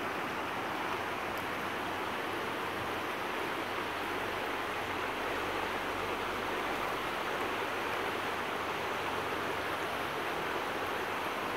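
Steady rushing water: an even, unbroken wash with no distinct splashes or swells.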